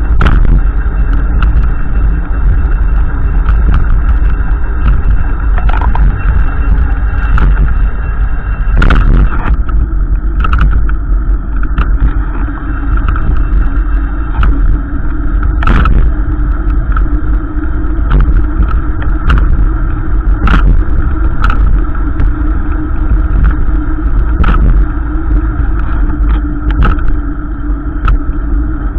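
Steady, loud low rumble of a car on the move, with irregular sharp clicks and knocks throughout.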